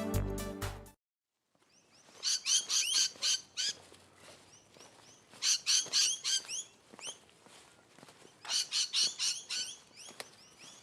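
Electronic background music cuts off about a second in. Then birds chirp in three quick runs of rapid, high chirps, with faint outdoor background between them.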